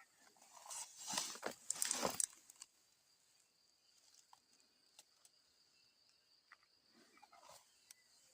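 Dry grass and weeds rustling and crackling as someone pushes through them, loudest about a second in, with a smaller rustle near the end. A faint steady high-pitched whine runs underneath.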